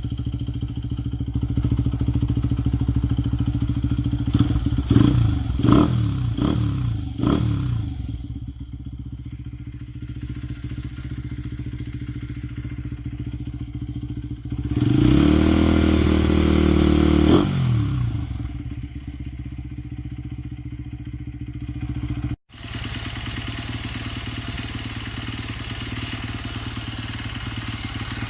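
Honda Ape 80's single-cylinder four-stroke engine idling through an aftermarket muffler. The throttle is blipped three times about five to seven seconds in, then held at higher revs for about two seconds around the middle before settling back to idle.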